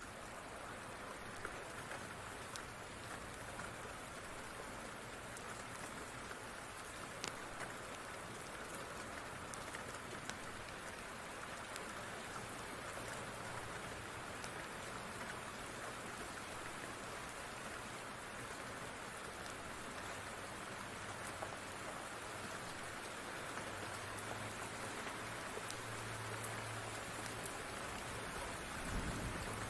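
Steady rain falling, with scattered faint sharp clicks and a low thump just before the end.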